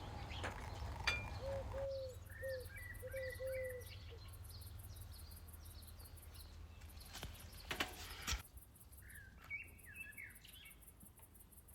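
Birds chirping and calling, with a run of short repeated lower calls a couple of seconds in and a few sharp clicks, the loudest about eight seconds in.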